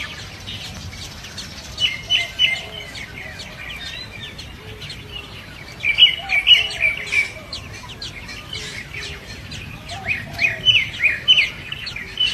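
Birds chirping in bursts of short, high calls, about two, six and ten seconds in, with fainter chirps between them.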